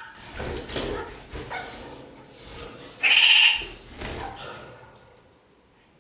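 Red-crowned parakeets (kakariki) chattering, with one loud call about three seconds in, then tailing off.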